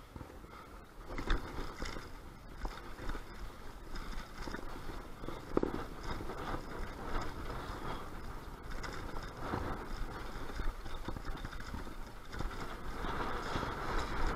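Strong wind buffeting the microphone with a constant low rumble, over outdoor street noise with small irregular knocks and rattles.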